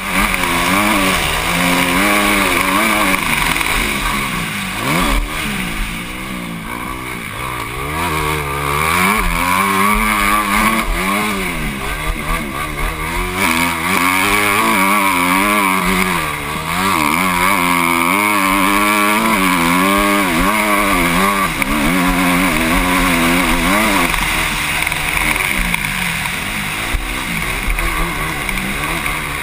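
Motocross bike engine heard from a helmet camera, its revs rising and falling over and over as the rider accelerates and backs off around the track.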